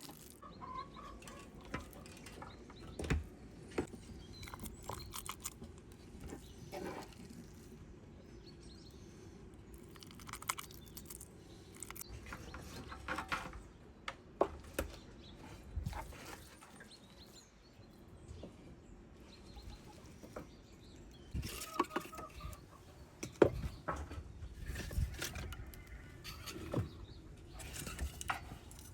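Chickens clucking now and then, among scattered sharp clicks and knocks.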